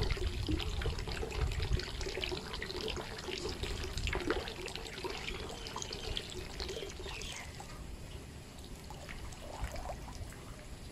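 Rain falling with water trickling and dripping: a steady wash of splashing with many small drops ticking on top, thinning a little after about seven seconds.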